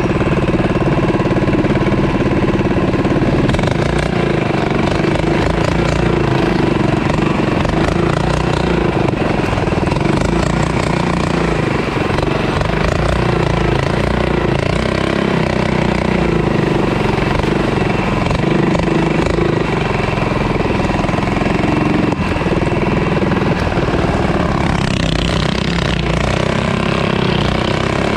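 Mini bike's small engine running steadily during a ride. The sound turns brighter and harsher near the end.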